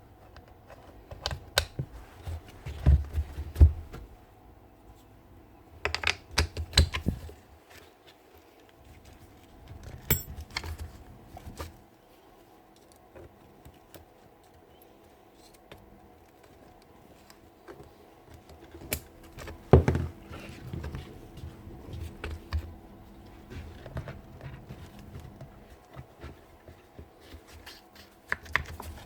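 Irregular clicks, taps and knocks of small hard parts being handled and fitted, coming in several short clusters, over a faint steady hum.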